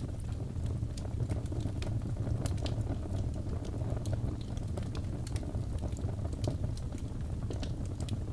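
Wood fire in a fireplace crackling steadily: frequent sharp pops and snaps over a low rumble of flame.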